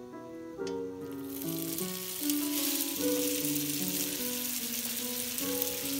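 Shredded daikon radish mixture frying in hot oil in a pan: a sizzle that starts about a second in and then holds steady, over background music.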